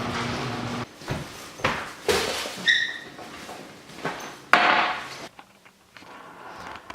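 A low steady hum cuts off about a second in, followed by a scatter of knocks and clatters, a short electronic beep near the middle, and a brief rush of noise.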